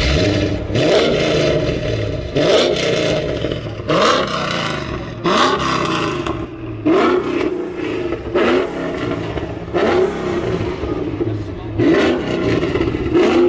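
A car engine revved hard over and over in short bursts, about eight in all, each a quick rise in pitch.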